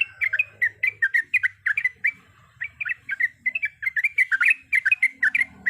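Yellow-vented bulbul (trucukan) singing a long, rapid run of short chirping notes, with a brief pause about two seconds in.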